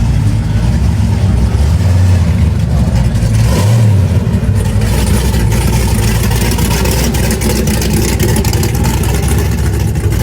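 Car engine running loud and close, with a strong low rumble that holds steady.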